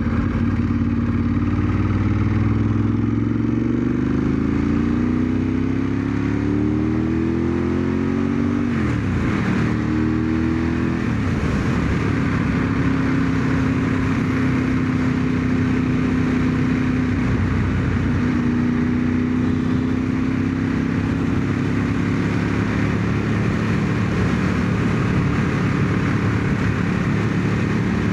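1997 Ducati 916's 90-degree V-twin engine pulling up through the gears: the note climbs, drops sharply at two gear changes about nine and eleven seconds in, then settles into a steady cruise. Wind rushes over the helmet microphone throughout.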